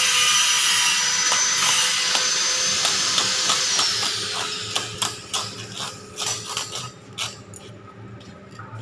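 A high-speed electric power tool runs with a steady high whine, then is switched off and winds down about three and a half seconds in. A string of sharp taps and clicks runs through the middle and fades out.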